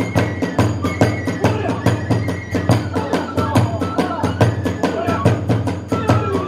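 Kagura hayashi music: drums beating a fast, steady rhythm of about five strokes a second, with a high bamboo flute holding and stepping between notes.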